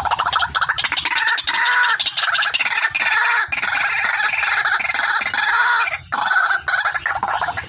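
White-breasted waterhen (ruak-ruak), the female's call, in a loud, continuous run of rapid, harsh, pulsing notes. There are brief breaks about 1.5, 3.5 and 6 seconds in.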